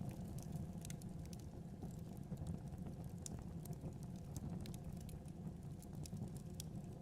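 Wood fire burning in a fireplace: a steady low rumble of the flames with irregular small crackles and pops.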